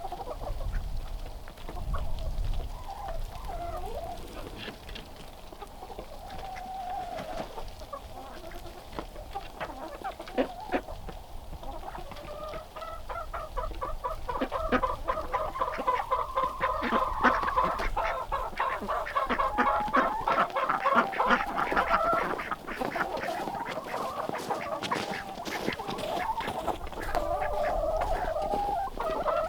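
Flock of domestic chickens clucking, with rapid runs of calls that get busier and louder from about the middle on.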